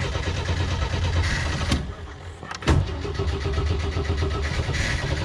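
Jeep CJ7's starter cranking the engine, which turns over but doesn't catch; the cranking dips briefly about two seconds in and picks up again. The crew takes the failure to start for a fuel tank run dry.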